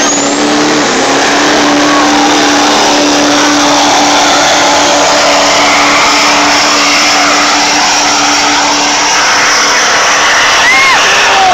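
Twin-turbocharged Duramax 6.6-litre V8 diesel in a Chevrolet 2500HD pickup running flat out under load while pulling a sled. After a brief climb in pitch it holds one steady, loud engine note, with a few short whistle-like chirps near the end.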